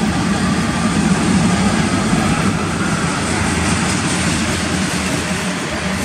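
Freight cars of a manifest train rolling past: a steady rumble of steel wheels on rail.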